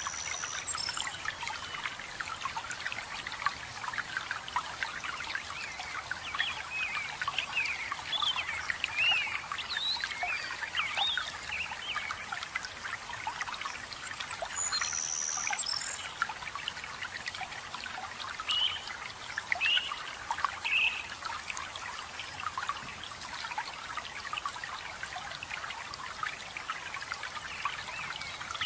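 Water trickling and splashing steadily, with small songbirds chirping over it. The chirps are busiest about a quarter of the way in and again about two-thirds through, and a thin high whistle comes twice.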